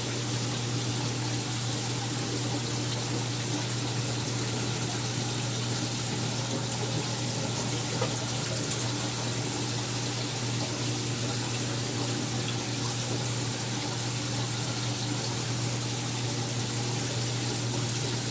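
Aquarium filtration running: steady rushing water with a constant low electric pump hum.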